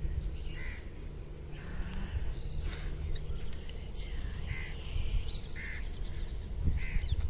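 Birds calling outdoors: several short chirps, spaced a second or so apart, over a steady low rumble of wind or background noise.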